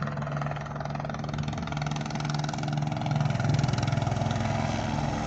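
Police helicopter flying low overhead: a steady, fairly loud rotor chop over a droning engine, swelling slightly around the middle.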